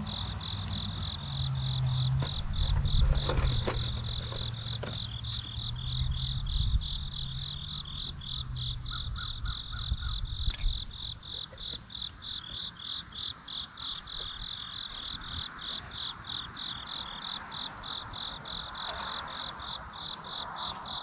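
Cricket chirping steadily, a high chirp repeated about three times a second. Low rumbling and a few knocks come through in the first half.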